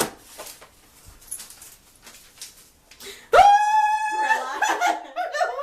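A person imitating an animal call with her voice: a sudden, loud, high held cry about three seconds in, lasting about a second, then breaking up into laughter.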